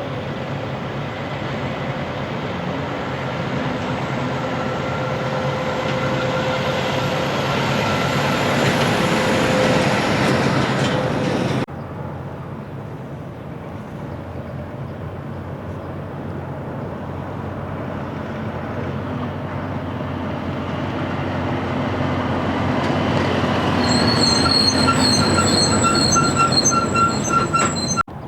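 Two heavy vehicles passing close by, each one louder as it approaches, cut together at about 12 seconds. The second pass-by has a high, pulsing whine near the end.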